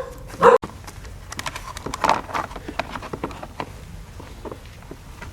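A dog barks once, sharply, about half a second in, then a run of scattered light clicks and taps.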